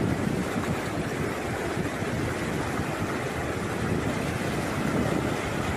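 Steady rush of a high, fast-flowing river.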